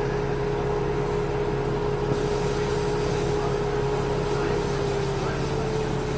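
A machine running with a steady hum and a held tone that dips slightly in pitch about five seconds in.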